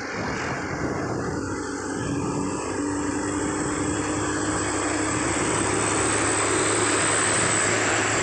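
A loaded truck's engine running with a steady drone that slowly grows louder, a thin high whine over it throughout.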